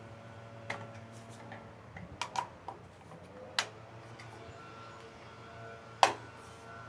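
Scattered clicks and taps of a hand spanner and parts being handled during assembly, a few strokes spread out, the loudest a sharp knock about six seconds in. A faint steady hum sits underneath.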